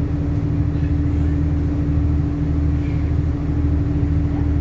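Cabin noise inside an Iarnród Éireann 29000 class diesel multiple unit running along the line: a steady low rumble with a constant hum over it.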